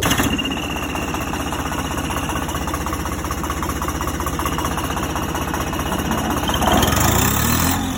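A vehicle engine running with a fast, even chugging. Its note shifts near the end.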